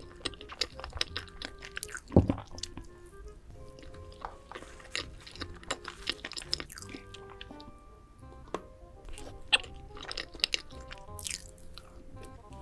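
Close-miked ASMR eating: crisp crunching bites and chewing of crunchy food, with the loudest bite about two seconds in, over soft background music.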